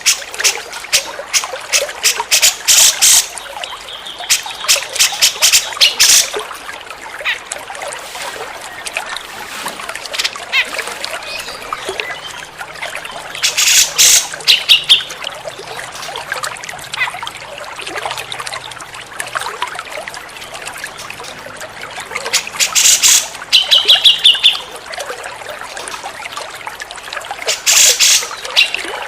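Cucak jenggot (grey-cheeked bulbul) calling in five bursts of rapid harsh chattering notes, some followed by a short run of clear ringing notes, over steadily trickling water.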